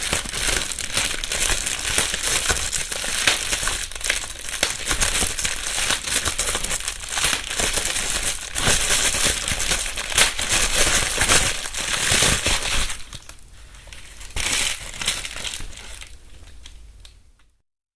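Plastic bubble wrap being crumpled and rustled by hand, a dense crinkling crackle with sharp pops of bursting bubbles. It thins out and grows quieter about thirteen seconds in, then stops shortly before the end.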